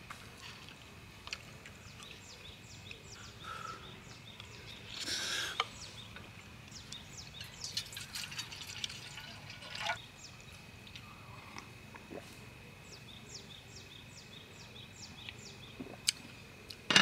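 Birds chirping, with quick high chirps repeated throughout and a thin steady high note in the second half, plus a few soft rustles.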